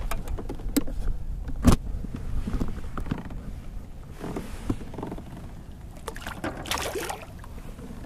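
Knocks and handling noises on a fishing kayak over a steady low rumble. A sharp click comes under a second in, a louder knock just before two seconds is the loudest sound, and a brief swish follows near seven seconds.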